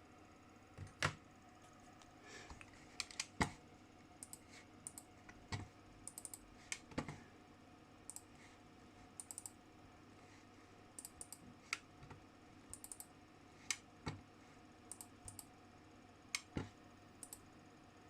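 Keys being pressed on a computer keyboard: irregular, faint clicks, some in quick pairs or short runs, over a steady low hum.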